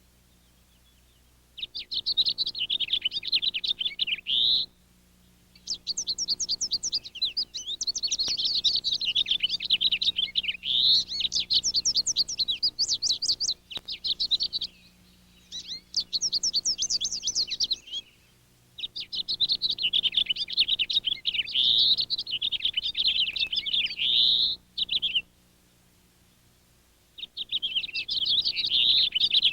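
A songbird singing long runs of rapid, high, warbling notes in five bursts, with short pauses between them.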